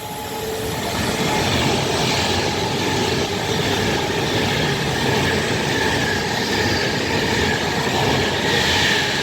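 Class 390 Pendolino electric train passing through the station at speed without stopping. Its rush of wheel and rail noise swells over the first second or so, holds steady with a faint high whine, and begins to fade at the very end.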